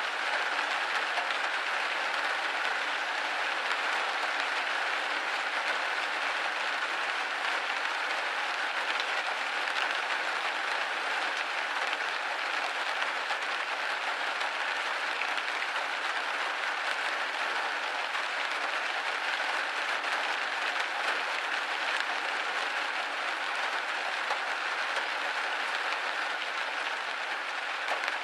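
Steady rain pattering against a window pane, a dense, even patter with no let-up.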